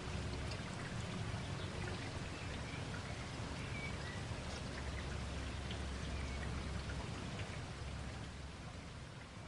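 Steady rain ambience: dense raindrop patter over a low rumble, with a few faint short chirps near the middle. It fades out over the last two seconds.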